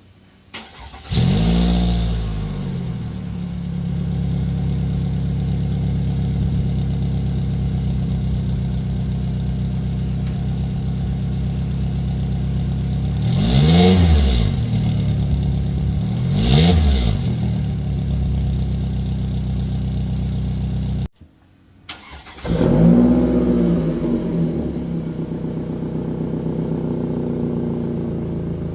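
Car engine starting and settling to idle through its stock muffler, then revved briefly twice. After a cut, the engine starts again and idles through a Kanade Seisakusho Ai-san-shiki aftermarket muffler.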